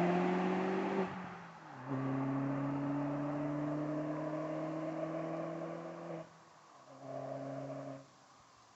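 Audi TT 1.8T's turbocharged four-cylinder through a non-resonated Milltek exhaust, accelerating with revs climbing, upshifting about a second in and pulling through the next gear. It lifts off about six seconds in, gives a short burst of throttle about a second later, then cuts out.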